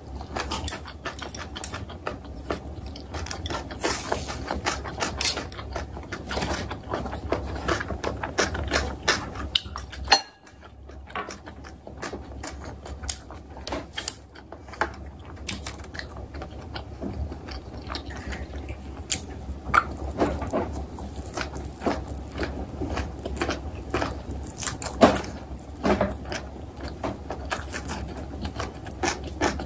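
A person chewing mouthfuls of kimchi and kimbap close to the microphone: many small irregular clicks and crunches, with a brief drop-out about ten seconds in.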